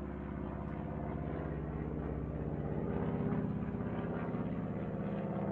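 Steady drone of an airliner cabin in flight, the low engine and air hum running on evenly and swelling slightly midway.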